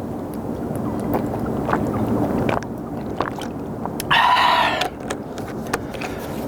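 Spicy instant ramen being slurped and chewed close to the microphone, with wet clicking mouth sounds throughout and one loud slurp lasting under a second about four seconds in.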